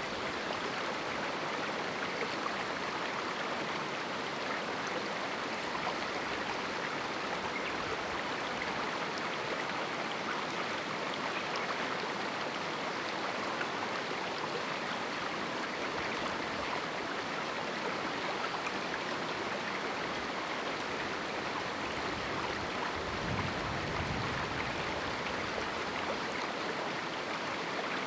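Small river in a canyon: a steady, unbroken rush of flowing water.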